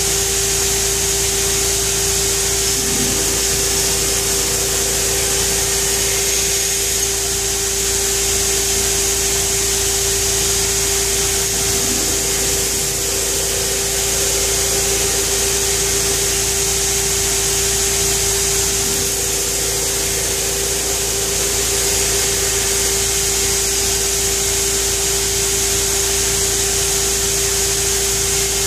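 Pheer 327 2x72 belt grinder running steadily: a constant hum at one pitch under a high hiss from the belt.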